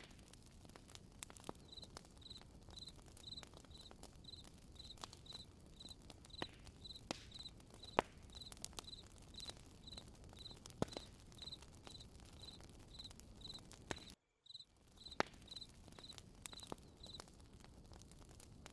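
Campfire crackling with scattered sharp pops, under a cricket chirping steadily about twice a second from a couple of seconds in until near the end. The sound cuts out completely for a moment about three-quarters of the way through.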